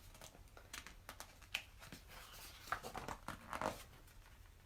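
Faint paper rustling and light clicks of a picture book being handled and its pages turned, with a few short soft rustles about two seconds in and again past three seconds.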